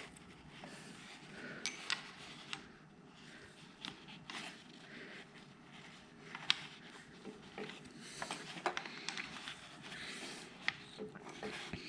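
Small metal tools clicking, tapping and scraping at an engine piston while prying at a wrist-pin circlip. The light clicks come irregularly throughout, with a sharper one near the middle.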